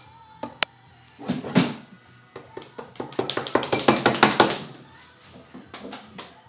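Crunching as a whole cooked cicada is bitten and chewed: a dense run of sharp, crisp cracks lasting about two seconds, with a few more near the end.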